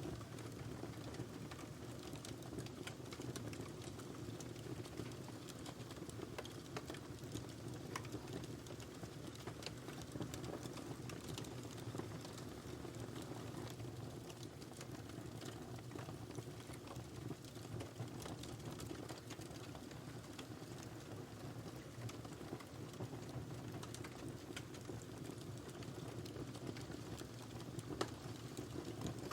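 Wood fire burning in a fireplace: a steady low rumble of flames with scattered small crackles and pops, one sharper pop near the end.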